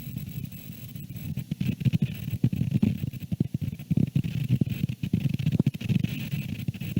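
Strong wind buffeting the nest camera's microphone: a low, gusting rumble with irregular pops and crackles that swells in gusts.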